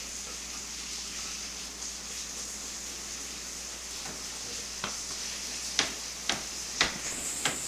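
Steady hiss of rain falling, with several sharp ticks in the second half.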